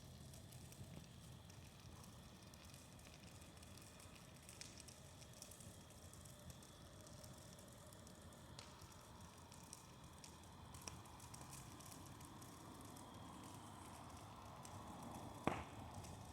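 Bonfire burning with faint, scattered crackles, and one sharp pop near the end.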